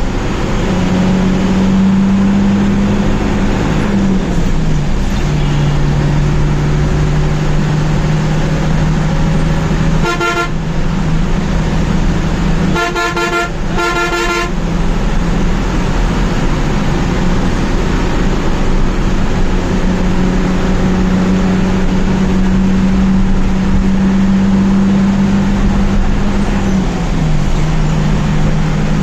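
Hino 1J bus engine running with a steady drone that drops in pitch about four seconds in and again near the end. The bus horn sounds a short toot about ten seconds in, then two longer blasts a few seconds later.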